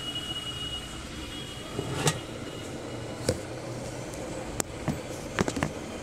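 Steady background rumble with several sharp clicks and taps, more of them near the end, as tools and parts are handled on the workbench.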